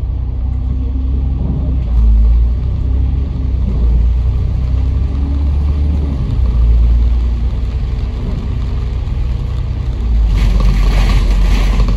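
Bus engine running with a deep rumble, its note rising and falling as the bus drives. About ten seconds in, a steady hiss joins.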